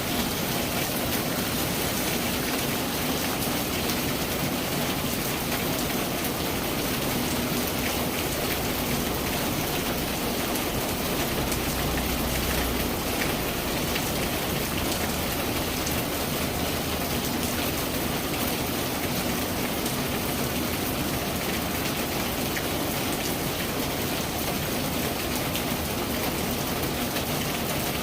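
Steady rain falling: an even hiss with many small drop ticks through it, and a brief low rumble about twelve seconds in.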